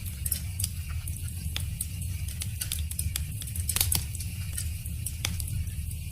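A wood fire crackling: irregular sharp pops and snaps of burning wood over a steady low rumble of the flames, with the loudest pop near four seconds in.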